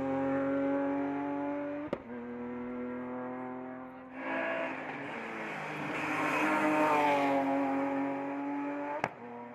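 Hillclimb race car engine at high revs, its note held high, then a louder close pass in the middle where the pitch climbs and falls away. A sharp click comes about two seconds in and again near the end.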